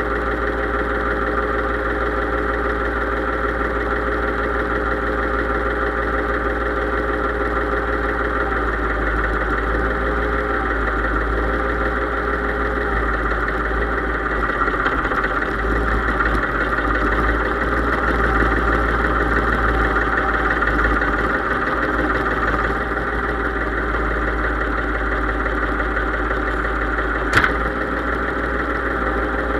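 Case IH 3220 tractor's diesel engine running steadily, rising slightly in level for a few seconds in the middle. A single sharp click near the end.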